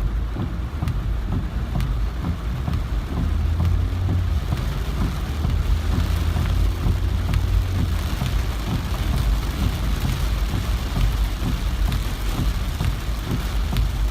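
Heavy rain falling in a steady hiss, with a low rumble underneath that holds a steadier hum for a few seconds in the middle.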